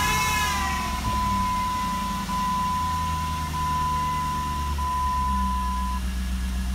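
A 2001 Jeep Grand Cherokee's 4.7-litre V8 just after starting, running on newly replaced crankshaft and camshaft position sensors: its revs fall in the first second, then it idles steadily without stalling. Over it sounds a steady high beep with brief breaks about every second and a quarter, which stops about six seconds in.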